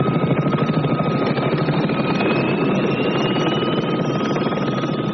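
Helicopter in flight: steady rotor chop under a constant whine, with a higher whine slowly rising in pitch.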